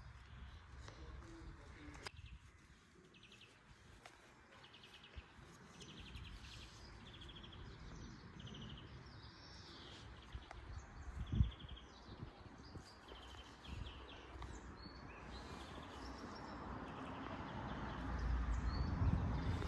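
Birds chirping repeatedly in the background over a low rumble, with one knock about halfway through and noise swelling near the end.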